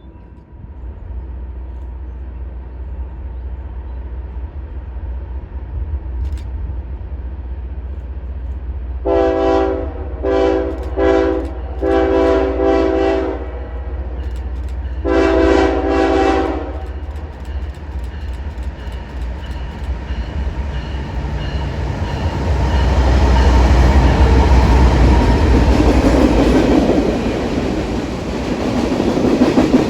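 CN diesel locomotive approaching with a low engine rumble and sounding its multi-chime horn. There are five blasts starting about nine seconds in, the last two long. Near the end the train passes close with loud wheel rumble and rail clatter.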